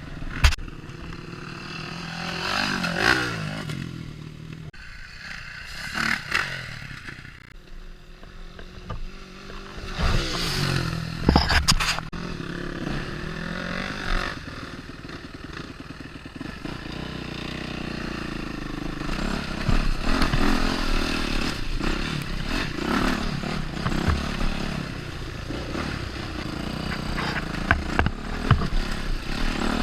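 Four-stroke dirt bike engines revving up and down over rough trail. Sharp knocks, scraping and clatter come through now and then.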